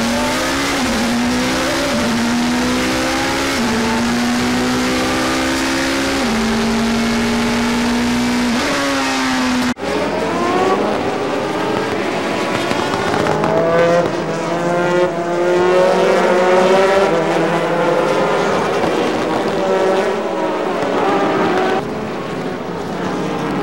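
Racing engines at full throttle. First a single engine climbs through the gears, its pitch rising and then dropping with each upshift. After a sudden cut about ten seconds in, several race engines accelerate together, their pitches rising over one another.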